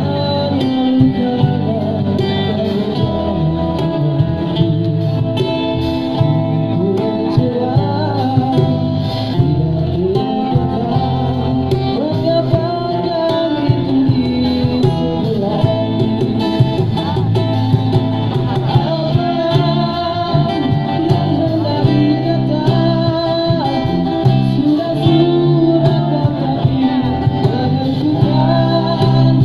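A busker singing a song to his own guitar accompaniment.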